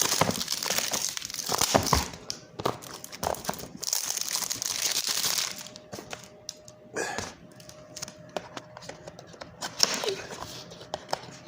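Plastic wrapping on a cologne box crinkling and tearing as it is pulled off by hand, dense and continuous for about the first five seconds, then giving way to scattered crinkles and taps.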